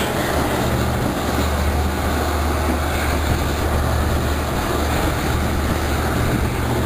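Passenger train running at reduced speed, heard through an open carriage window: a steady low rumble from the train with rushing air over it.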